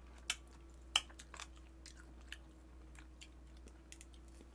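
Close-up mouth sounds of people chewing food, with scattered small sharp clicks; the two loudest come about a third of a second and about a second in.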